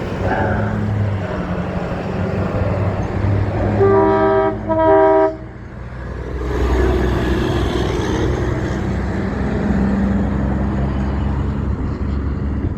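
Passing truck sounding its air horn in two loud blasts, about four and five seconds in, over the rumble of a diesel engine; a truck then goes by with rising engine and tyre noise.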